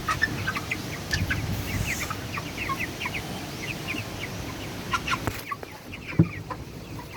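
A flock of 29-day-old broiler chickens calling, with many short high calls overlapping throughout. A single thump is heard about six seconds in.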